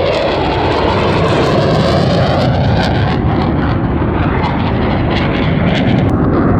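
Blue Angels F/A-18 Super Hornet jet flying past, a loud steady engine noise with a slowly shifting, sweeping tone as it passes.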